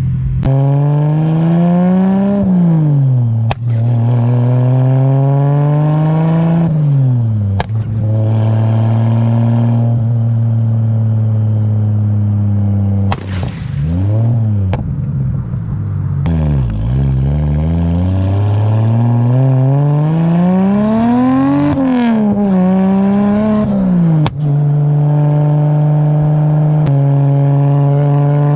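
Straight-piped turbocharged RB30 inline-six in an R31 Skyline wagon, its note climbing for a couple of seconds and falling back again and again, with about half a dozen sharp cracks from the exhaust. The bangs come from heavily retarded deceleration timing with the fuel cut disabled.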